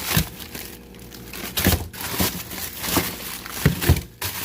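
Plastic packaging crinkling and rustling as it is handled, with several sharp knocks, the loudest near the end.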